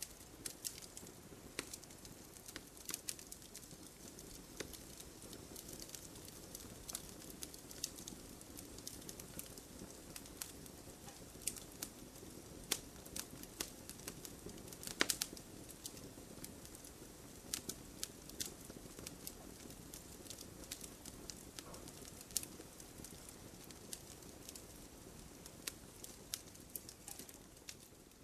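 Wood fire crackling steadily over a low hiss, with frequent irregular sharp pops and snaps; a burst of louder pops about fifteen seconds in.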